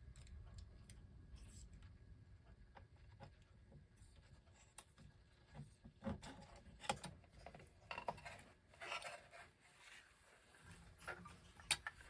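Faint handling of a record player's tone arm and wiring: scattered light clicks, taps and rubbing, busiest in the second half, with a sharp click near the end.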